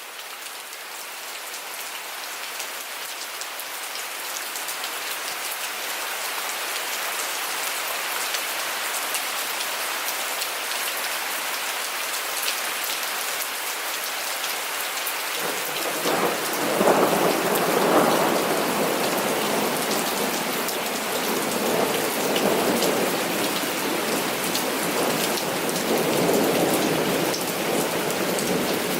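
Heavy rain falling steadily, fading in at the start. About halfway through, thunder begins rolling in the distance in several long rumbles that swell and fade.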